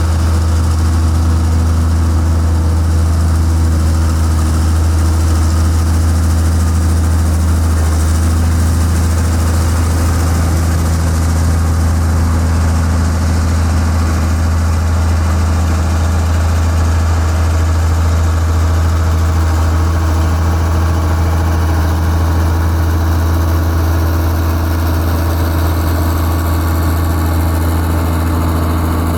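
Heavy construction-machine diesel engine running steadily at idle, with a deep, unchanging hum.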